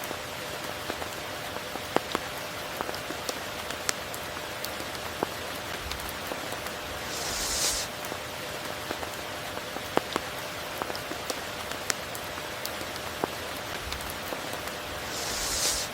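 Steady tropical rain falling on water and foliage, with scattered individual drips. About halfway through, and again at the very end, a brief hiss swells up and falls away.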